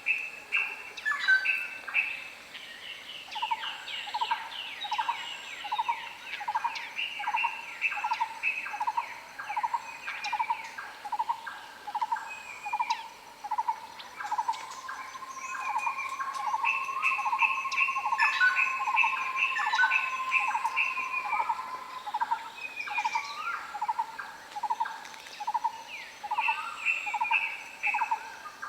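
Several wild birds calling together. A low note repeats steadily about one and a half times a second, over higher chirps and quick note series. A long, steady whistle is held for several seconds in the middle.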